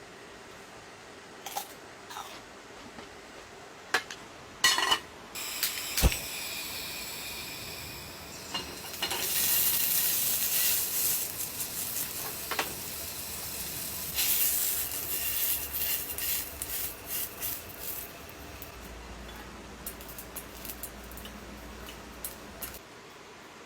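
Clicks and knocks of utensils and gear being handled, the loudest about six seconds in, then a long spell of hissing with small clicks in the middle, fading to a faint low hum near the end.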